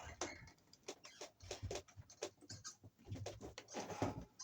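Irregular small clicks, taps and scrapes of solid copper wires being pushed firmly into Wago push-in connectors, with hand-handling noise of the wires and box.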